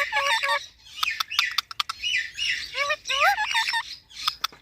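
Pet parrot calling: a quick run of short repeated notes at the start, a patter of sharp clicks, then several squawks that sweep upward in pitch.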